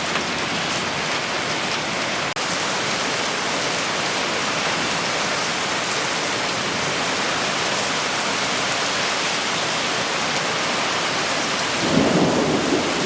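Steady, heavy summer rain falling, with a split-second dropout about two seconds in. Near the end, a low rumble of thunder begins.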